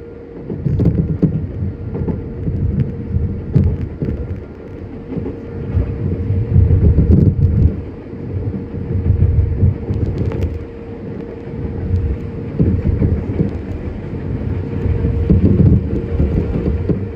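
Running sound of a Nankai 7100 series resistor-controlled electric train, heard from inside the car. Low wheel-on-rail rumble swells and fades every couple of seconds over a steady tone, with a few sharp clicks.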